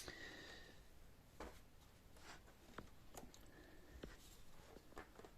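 Near silence: room tone with a sharp click at the start that rings briefly, then a few faint scattered clicks and taps.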